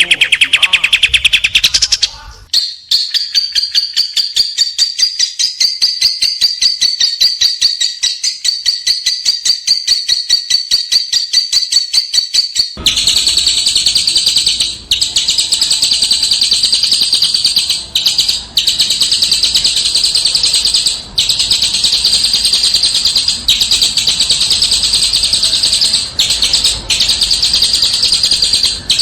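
Small songbirds singing fast, high trills of rapidly repeated notes. The song changes abruptly about two and a half seconds in and again near the middle, where a denser continuous trill takes over, broken by a few brief pauses.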